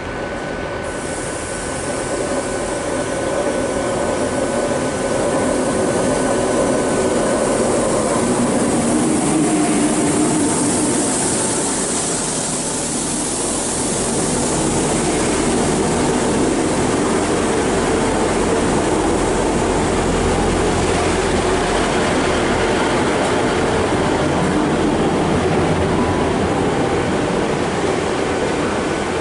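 Trains moving through a station: a Class 158 diesel multiple unit running in, then a Great Western Railway Intercity Express Train passing close by. A thin steady whine is heard over the first several seconds.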